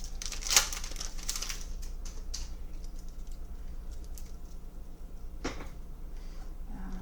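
Foil trading-card pack being torn open and crinkled: loud crackling from about half a second to a second and a half in, then a few soft clicks and rustles as the cards are handled, over a low steady hum.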